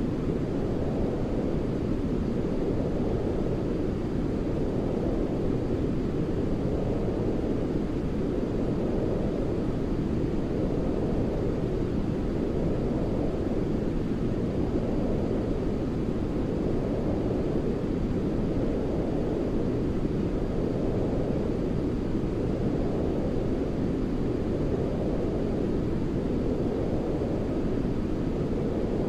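Continuous sleep noise for babies: a steady, low, rumbly hiss, dark like brown noise. Its upper edge swells and eases gently about every two seconds.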